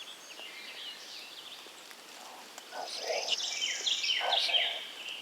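Several songbirds singing over one another: repeated short sweeping chirps and phrases, a high trill about three seconds in, and some lower calls at the same time.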